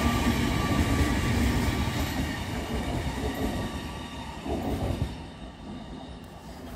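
Great Western Railway Hitachi intercity train running past and drawing away, its rumble fading steadily over about five seconds. A steady whine sits over the rumble in the first couple of seconds.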